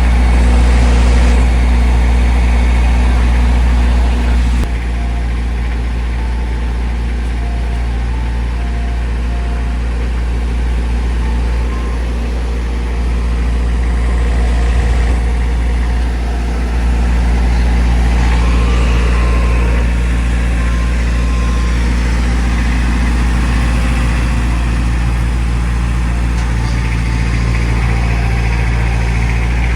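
Ice cream truck's engine idling steadily, a deep, even hum.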